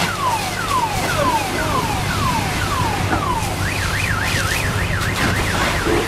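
Car alarm sounding through its tone cycle: a falling chirp repeated about twice a second, switching about three and a half seconds in to a fast up-and-down warble, over a steady low rumble.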